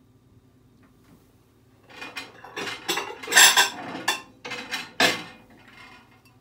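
Metal cutlery scraping and clinking against dishes in a run of strokes that starts about two seconds in and stops a little after five seconds.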